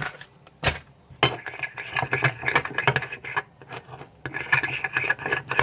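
Glue being stirred with a utensil in a container: scraping and clicking against the container in two spells of a couple of seconds each.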